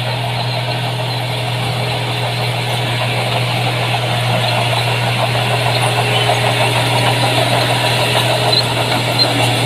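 Diesel engine of heavy earthmoving equipment running steadily at working revs, its loudness rising slowly.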